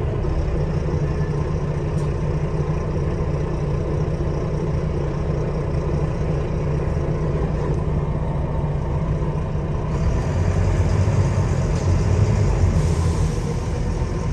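Diesel engine of a double-decker bus heard from inside the passenger cabin, running steadily with a strong low rumble, getting louder about ten seconds in.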